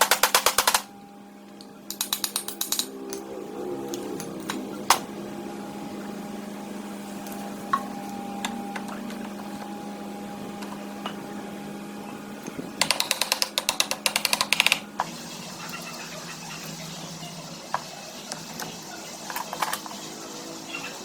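Short bursts of very rapid mechanical clicking, three runs of about one to two seconds each, the longest near the middle, with a few single clicks between them over a steady hum.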